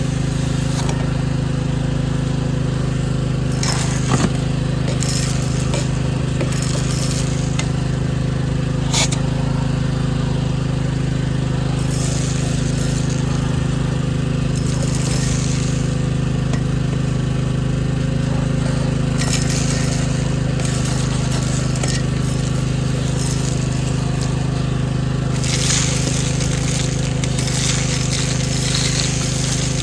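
A motor running with a steady drone, with stretches of hissing and scraping noise and a couple of sharp clicks.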